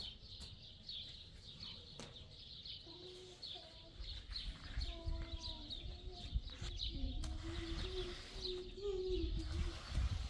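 Birds chirping, many short high chirps repeating a few times a second. From about three seconds in, a low held hum wavers slightly in pitch until shortly before the end, with a low rumble underneath.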